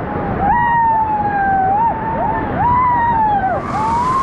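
Several people screaming and yelling in long held cries, one after another and overlapping, over the steady rush of whitewater as a raft runs a rapid.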